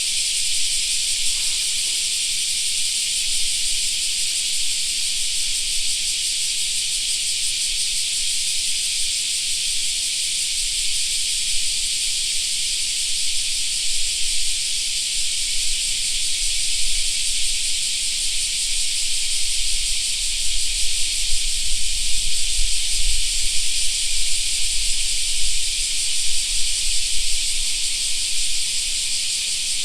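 Cicadas in a loud, unbroken summer chorus, a dense high shrill hiss. A low rumble swells under it from about halfway through and fades near the end.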